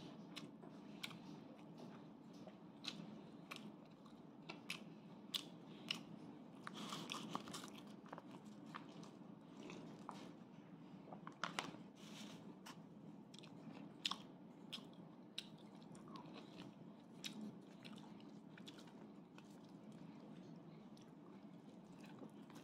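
A person chewing and biting food close to the microphone, with many small sharp crunches and mouth clicks scattered irregularly. Near the end he bites into a grilled chicken leg.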